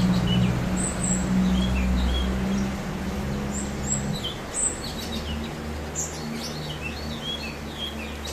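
Cucak cungkok singing a run of short chirps and quick sliding whistled notes. A steady low hum runs underneath, dropping in level about four seconds in.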